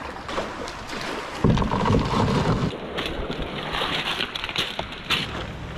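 Water sloshing and splashing around a kayak as it is paddled, with wind rumbling on the microphone, loudest about a second and a half in.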